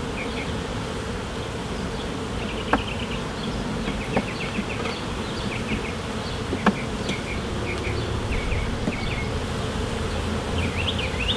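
Honeybees buzzing steadily around an open hive during a frame inspection, with a few soft clicks.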